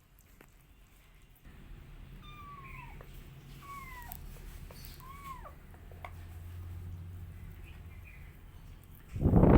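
A kitten meowing three times, short high calls that each drop in pitch, over a low steady rumble. A loud low thump comes near the end.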